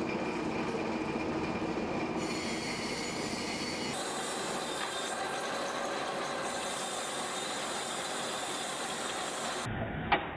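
Metalworking machinery running with a steady metallic squeal and hiss, carrying on across several cuts, with one short sharp clink near the end.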